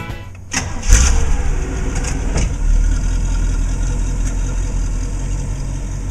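1963 Corvette's 327 small-block V8 starting. It catches with a loud burst about a second in, revs once briefly, then settles into a steady idle.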